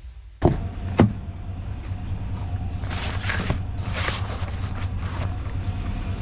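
A vehicle engine running at a steady idle, cutting in abruptly with a sharp click. A second click about half a second later, and brief rustling bursts around three and four seconds in.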